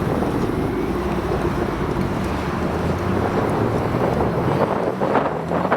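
A car engine running, with a steady hum that rises slightly near the end, and wind buffeting the microphone.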